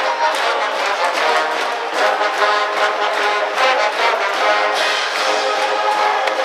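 High-school brass band playing a baseball cheering song, trumpets and trombones over a steady drumbeat.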